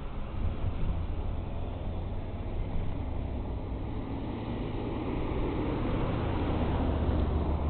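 Steady low rumble of riding an e-bike outdoors: road, tyre and wind noise on the microphone, growing a little louder in the last couple of seconds.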